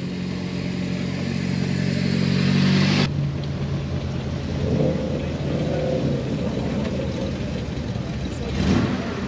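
A car engine running with a steady low hum that grows a little louder, then cuts off sharply about three seconds in. A rougher, mixed rumble follows, with a brief louder noise near the end.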